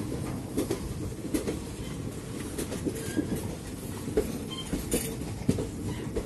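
Indian Railways passenger train running on the tracks: a steady rumble of wheels on rail with irregular clacks and knocks as the wheels cross the points, and a few brief faint squeals.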